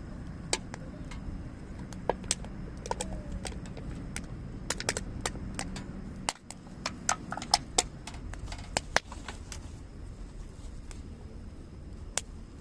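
Wood fire crackling, with irregular sharp pops and snaps that come thickest in the middle, over a low steady rumble.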